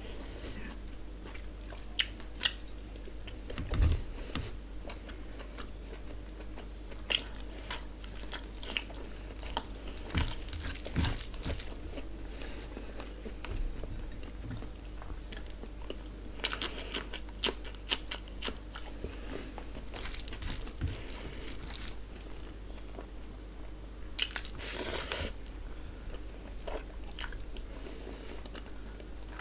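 Close-miked eating by hand: chewing and wet mouth smacks on mouthfuls of rice with curry, with scattered clicks and squelches of fingers working rice and gravy on a plate.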